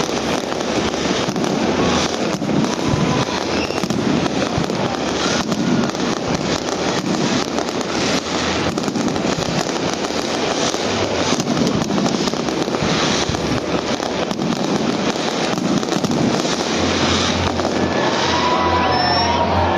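Fireworks finale barrage: a dense, continuous run of overlapping bangs and crackles, with music coming in faintly near the end.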